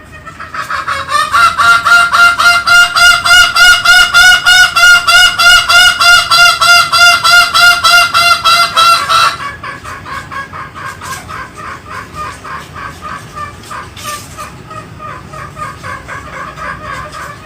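Green junglefowl calling in a fast, even series of pitched notes, about four a second. The series is loud until about nine seconds in, then drops suddenly to a quieter run of the same notes.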